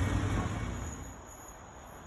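Low engine rumble of a road vehicle fading away over the first second and a half, leaving a faint high-pitched outdoor background.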